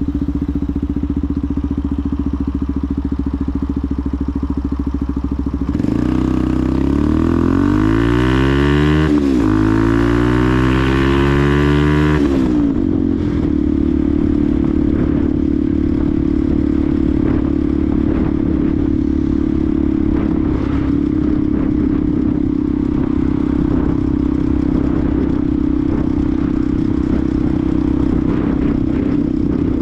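Benelli TNT 125's single-cylinder four-stroke engine running steadily. About six seconds in it revs up, dips briefly as a gear is changed, climbs again, then drops back to a steady note.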